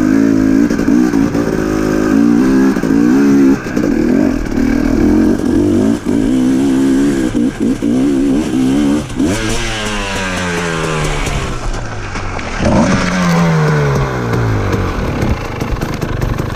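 Dirt bike engine working hard up a steep climb, its revs wavering. About nine seconds in the revs fall away in long downward glides amid clattering, then rise briefly and fall again: the rider meant to downshift into first but went into neutral, and the climb fails.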